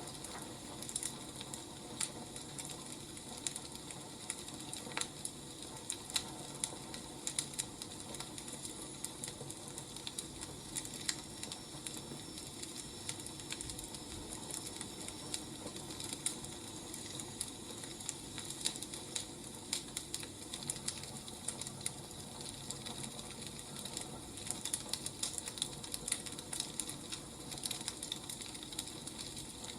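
Burning firewood crackling: irregular sharp pops and snaps, some in quick clusters, over a steady low hiss.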